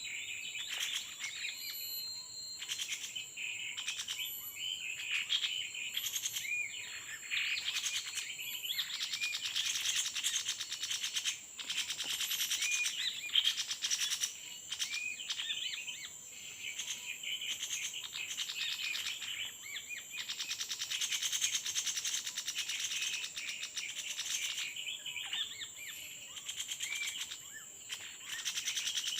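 Small birds giving short, repeated chirping calls, over a steady high-pitched insect drone.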